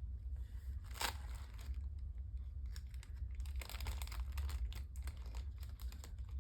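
Crinkling and rustling of craft packaging being handled, with a sharp click about a second in and a denser spell of crinkling near the middle. A low, steady hum runs underneath.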